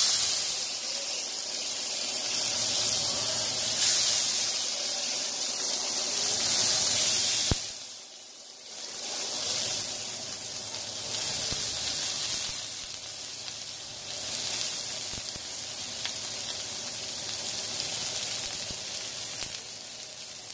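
Sliced onion and bell peppers sizzling in hot coconut oil in a wok, starting with a sudden loud hiss as they hit the pan. The sizzle drops away briefly about eight seconds in, then carries on a little softer.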